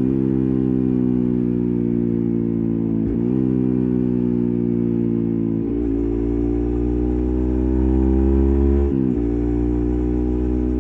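Yamaha MT15's single-cylinder engine running through an SC Project full-system exhaust with its silencer insert, under way. The steady exhaust note dips sharply and climbs again three times, about three, six and nine seconds in, as at gear changes.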